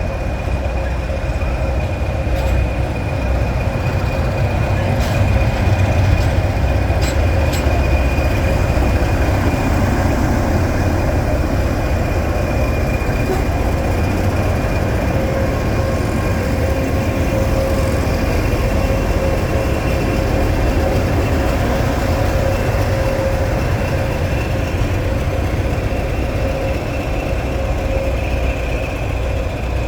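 Diesel-hauled train running: a steady heavy rumble with a constant whine over it, and a few sharp clicks about five to eight seconds in.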